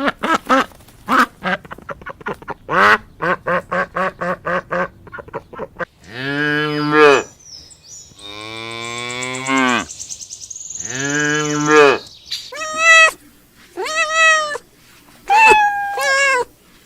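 Farm animals calling: a quick run of short duck quacks for about five seconds, then a cow mooing in three long, low calls, then several shorter, higher-pitched bleats near the end.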